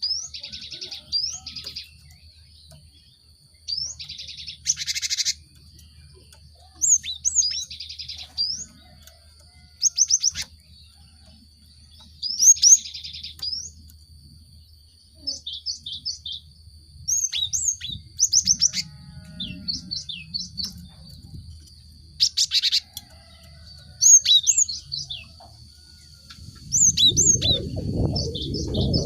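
Cinereous tit (gelatik batu) singing and calling in bursts: quick upslurred chirps and a few short harsh, buzzy churrs, with pauses between phrases. A steady high whine runs underneath, and a low rumble comes in near the end.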